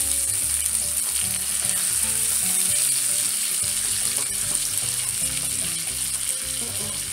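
Seasoned salmon fillets sizzling steadily in oil in a hot electric skillet, with a wooden spatula scraping the pan now and then as a fillet is turned.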